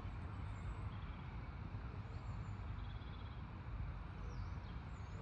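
Steady low outdoor rumble, with a few faint high bird chirps over it.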